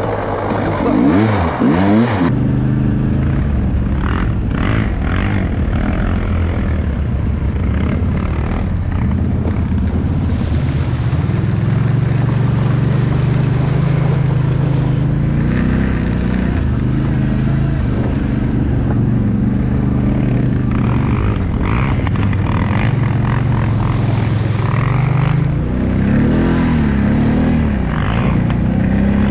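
Enduro motorcycle engine running steadily as it is ridden at an easy pace over snow, its pitch shifting with the throttle, with a couple of quick revs up and down near the end.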